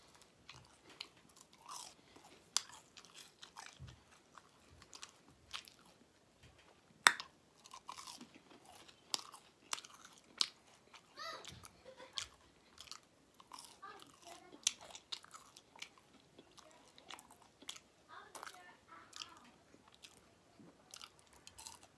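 Close-up eating sounds of fried fish and French fries: chewing and crunching, with irregular sharp mouth clicks and smacks, the loudest about seven seconds in.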